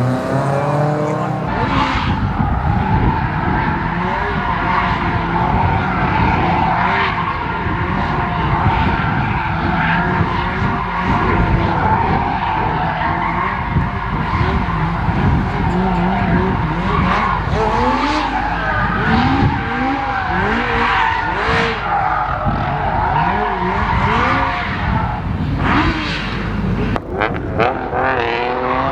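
Rally car engine revving hard, its pitch rising and falling over and over through gear changes and lifts, with a constant heavy rumble.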